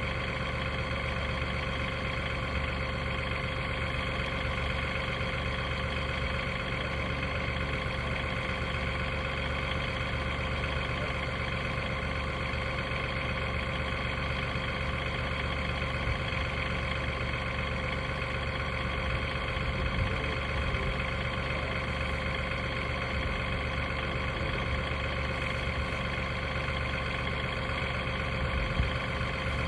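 Portable sawmill's engine running steadily at an even speed, with no change in pitch or load.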